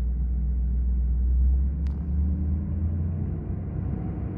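Ford 6.7 Power Stroke V8 turbo-diesel running cold, its idle rising to high idle about two seconds in after the high-idle switch is flipped, with a faint click near the change.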